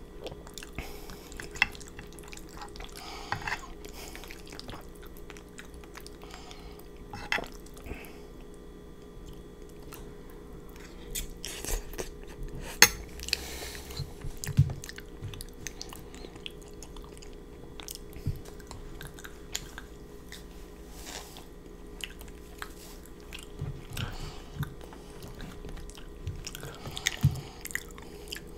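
Close-miked chewing of fettuccine noodles in a creamy chicken chili sauce, with irregular sharp clicks and smacks scattered throughout, the loudest about halfway through.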